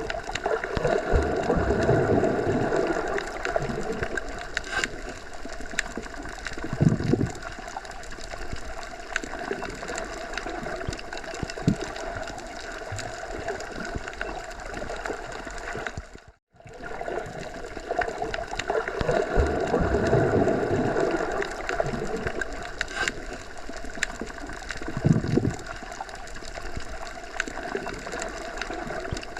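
Wind blowing through forest trees, a steady rush that swells in gusts, with a few small ticks and knocks. A short gap about 16 seconds in, after which the same gusts come round again as a repeating loop.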